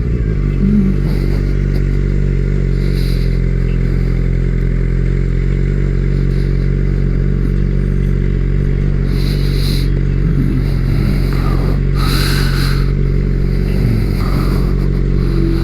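Suzuki GSX-R750 sport bike's inline-four engine running steadily at an even, unchanging speed, then cutting off suddenly.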